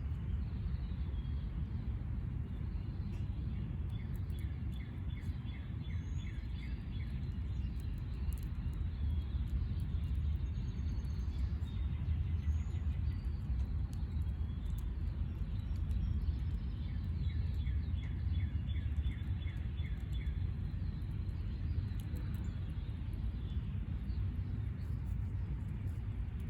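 A backyard bird calls twice in a quick run of about eight short repeated notes, with a few fainter higher chirps in between, over a steady low rumble.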